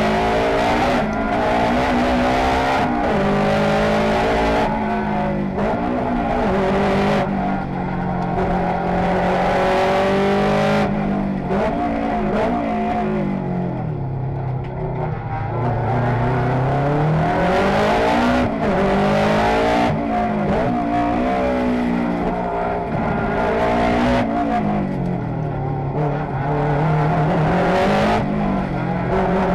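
Rally car's turbocharged four-cylinder engine under hard acceleration, revving up and dropping back again and again with gear changes and braking for corners. The engine slows low for a tight corner about halfway through, then climbs back up.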